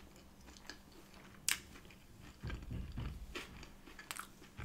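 A person chewing a mouthful of breaded plant-based 'no chicken' with the mouth closed: faint, soft chews that come in a low rhythmic run in the second half, with a small sharp click or crunch about a second and a half in and another near the end.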